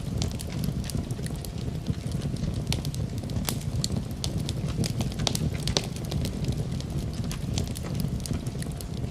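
Wood fire burning in a fireplace, crackling with frequent sharp, irregular pops over a low steady rumble.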